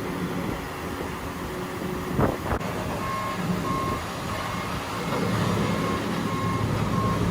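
Reversing alarm on a combine harvester beeping steadily, about two beeps a second, starting about three seconds in, over the low running of its diesel engine as the machine is maneuvered.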